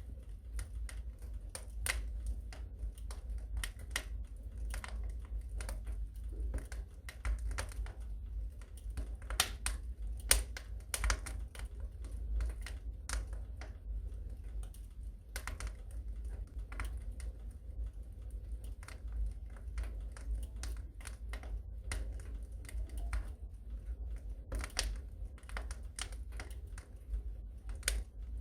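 Wood fire crackling in a fireplace: irregular sharp snaps and pops over a steady low rumble of the flames, with one louder pop about ten seconds in.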